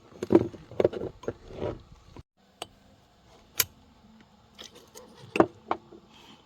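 Metal parts of a Cummins diesel fuel pump being handled during disassembly: a run of knocks in the first two seconds, then a few scattered sharp metallic clicks and taps.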